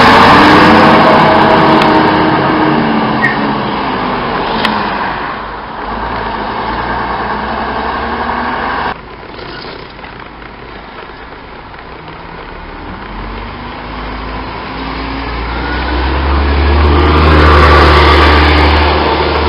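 Bus engines on the road: one engine's pitch falls as it slows. A sharp break about nine seconds in is followed by another engine revving up and growing louder as it accelerates, loudest near the end.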